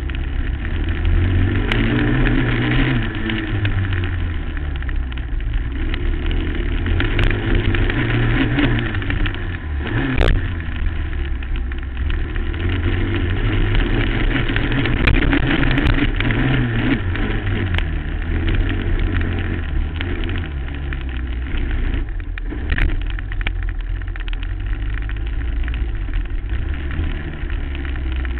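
2008 Suzuki LT-R 450 quad's single-cylinder four-stroke engine revving hard, its pitch rising and falling again and again as the throttle opens and closes over the track. A sharp knock comes about ten seconds in and another a little later.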